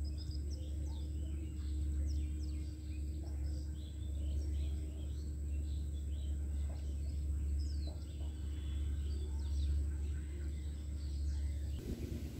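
Small birds chirping and twittering over a steady low rumble of outdoor background noise.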